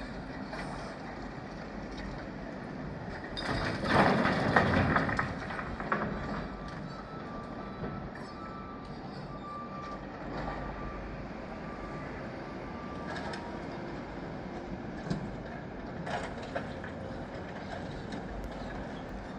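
Small diesel construction machines running steadily, with a loud rattling clatter lasting about two seconds around four seconds in and a few lighter knocks later.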